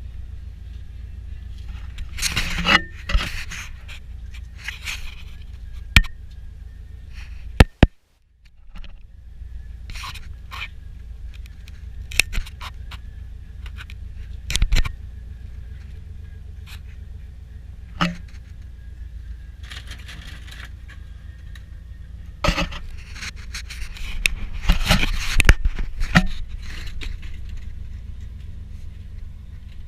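Scattered scrapes, clinks and knocks of metal tools and parts being handled, over a steady low hum.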